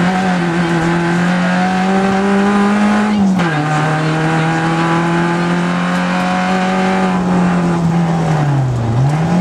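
Rally car engine heard from inside the cabin, pulling steadily under power. Its pitch climbs slowly, drops sharply at a gear change about three seconds in, holds steady, then dips and climbs again near the end.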